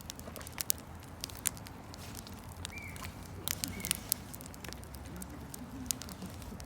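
Wood campfire crackling, with irregular sharp pops over a low steady rustle of burning. Two brief high squeaks come a second apart near the middle.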